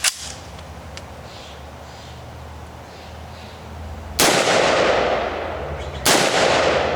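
Two shots from an M4 carbine firing .223 rounds, about two seconds apart, each followed by a long echo dying away.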